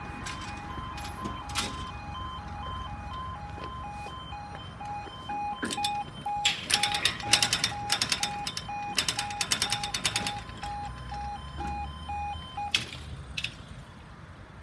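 Level crossing warning alarm sounding as a pulsing two-tone note, about two beeps a second, which the trainspotter thinks may be broken and too quiet. Midway comes a few seconds of rapid clattering. The alarm cuts off abruptly near the end.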